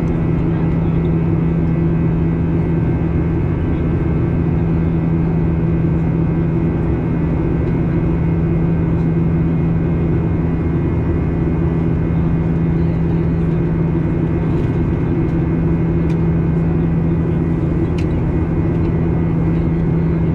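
Boeing 737-800 cabin noise: a steady, loud drone of the CFM56 jet engines and rushing air, with a strong low hum and several steady higher tones. A couple of faint clicks are heard near the end.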